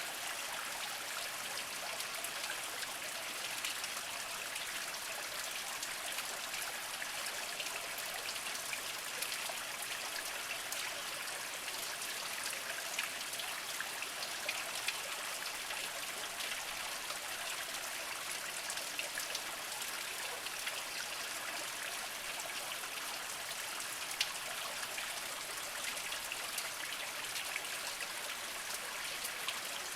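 Small mountain spring trickling and splashing steadily over mossy rocks, a light watery hiss with scattered sharper drips, one louder drip about three quarters of the way through.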